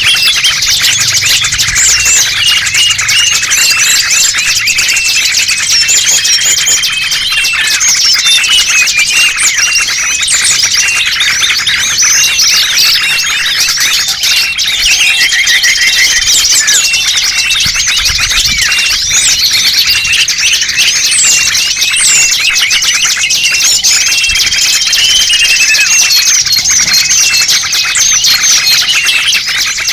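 Dense mixed chorus of many small songbirds chirping, twittering and trilling over one another without pause: a pikat lure recording made to draw small birds.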